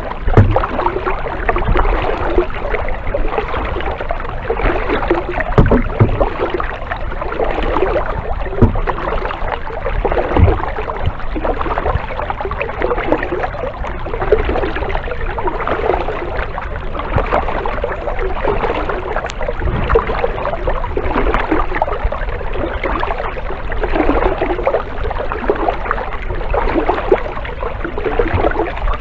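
Kayak paddle strokes dipping and splashing through the water in a steady, repeating rhythm, with a few dull low knocks.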